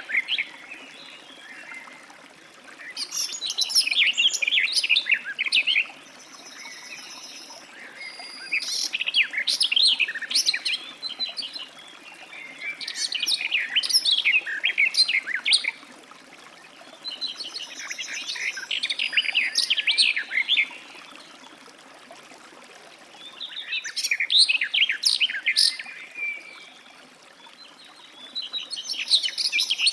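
Garden warbler singing: bursts of fast, rambling warbling, each about three seconds long, repeated about every five seconds, six phrases in all. A fainter, evenly repeated call from another bird sounds in a couple of the gaps.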